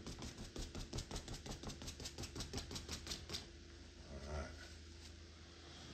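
Quick run of light taps from a paintbrush, about six a second, stopping after about three and a half seconds.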